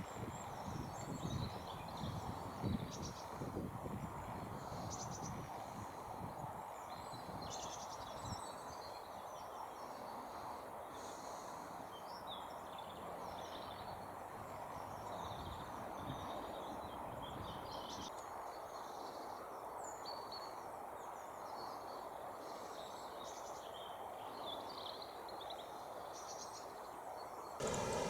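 Many small birds chirping and twittering in quick, high-pitched calls, over a steady background hiss of environmental noise.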